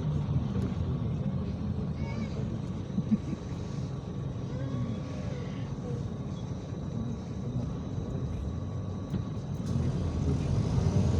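IVECO Crossway 13M PRO city bus's diesel engine running steadily under way, heard from inside the bus, with faint voices. Near the end the engine note grows louder and rises as the bus pulls away or accelerates.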